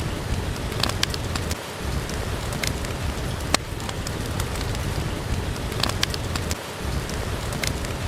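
Steady rain falling, with a wood fire crackling: scattered sharp pops over the hiss of the rain.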